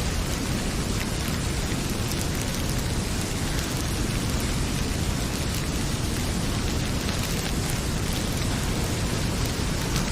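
Heavy rain pouring, a steady dense hiss with a deep rumble underneath, with now and then a faint crackle of a wood fire.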